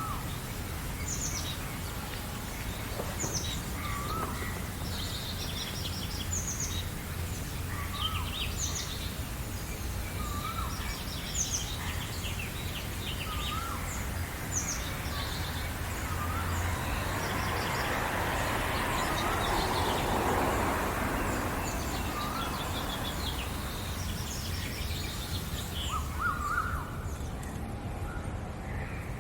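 Several birds singing in a spring-morning chorus: many quick high chirps and trills, with one bird repeating a short, lower wavy call every couple of seconds. A steady low rumble runs underneath, and a soft rushing noise swells and fades around the middle.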